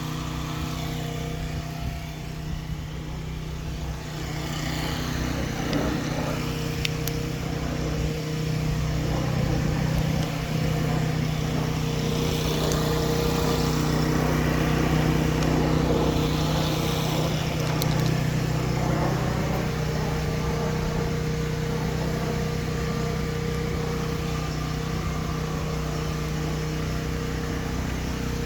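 An engine idling steadily, a constant low hum that holds one pitch throughout.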